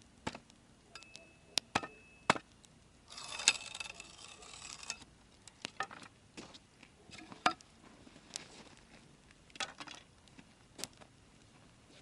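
Wood campfire crackling: scattered, irregular sharp pops and snaps, with a short burst of hissing crackle about three seconds in.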